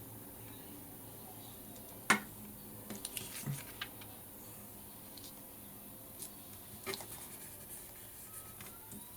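Paper and craft materials handled on a work table: a sharp tap about two seconds in, then a few small scattered clicks and rustles.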